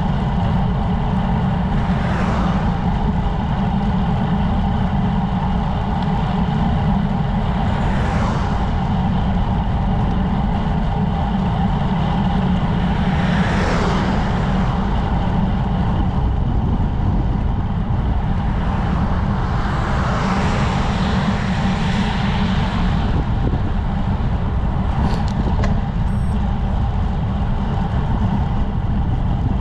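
Steady low wind and road rumble on a camera riding along with a road bicycle, with a few louder whooshing swells, about four of them, spread across the stretch.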